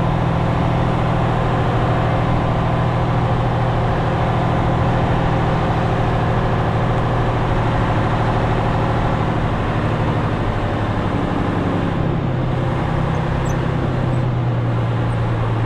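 Semi-truck diesel engine running steadily, its pitch stepping down a little about eleven seconds in.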